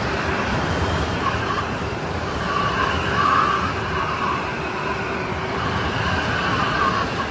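Strong snowstorm wind blowing steadily, with a whistling tone that swells about three seconds in and then eases.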